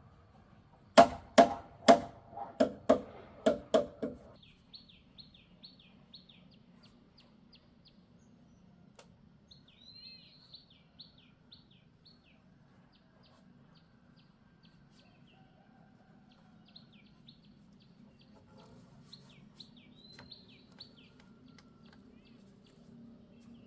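About nine sharp knocks on wood in quick succession, like hammer or blade blows during timber-frame building. These are followed by small birds or chicks chirping repeatedly in short, high, falling peeps over a faint low hum.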